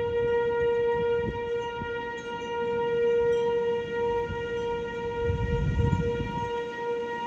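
American Signal T-121 outdoor warning siren sounding a steady, single-pitched tone for a severe thunderstorm warning, its loudness swelling and easing slightly. Low rumbles of wind buffet the microphone, most strongly a little past the middle.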